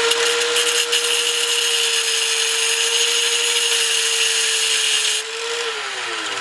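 Power tool, most likely an angle grinder with a cut-off disc, cutting through a steel exhaust pipe: a steady motor whine under a harsh, hissing grind. The grinding stops suddenly about five seconds in, and the whine then falls in pitch as the motor spins down.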